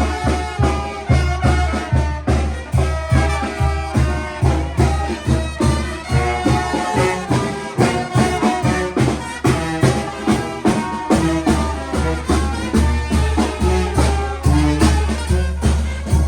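Band music with brass instruments over a steady beat of about two pulses a second.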